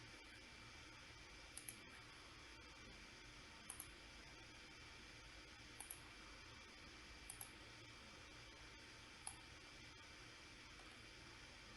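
Computer mouse clicking: four quick double-clicks about two seconds apart, then a single click, over a faint steady hiss.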